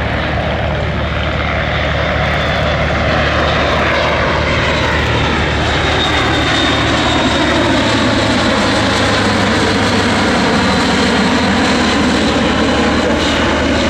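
Airbus A400M Atlas's four turboprop engines and propellers as the transport flies past: a loud, steady drone with a low propeller hum and a sweeping, phasing sound, swelling a little in the first half.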